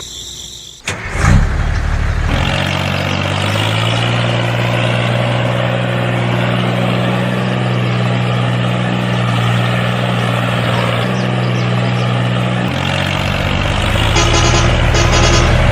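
Small engine starting about a second in, then running at a steady speed, with a deeper note near the end.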